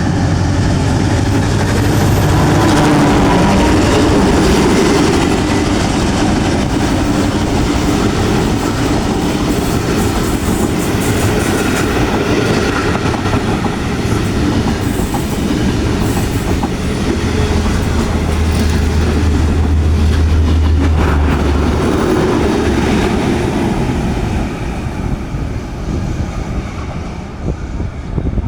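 Diesel train passing without stopping, loud and steady for most of the time and dying away over the last few seconds.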